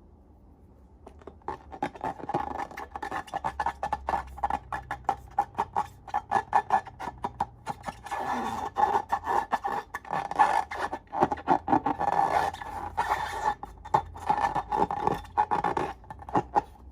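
Hands working slime with balloons: dense crackling and squishing with a squeaky rubbery tone running through it. It starts about a second in and stops near the end.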